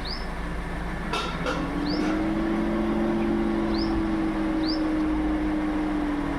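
Toyota Innova Hycross AC compressor cutting in about a second in with a pronounced tock, two quick knocks, then running with a steady low hum. The tock on engagement is the unexplained noise the owner is asking about.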